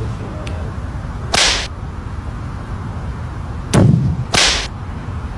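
A cat hissing in three short bursts, once early and twice in quick succession later, over a steady low background rumble.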